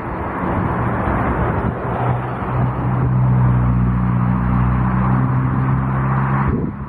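An engine running with a steady low hum over a broad roar, louder through the middle, then cutting off abruptly near the end.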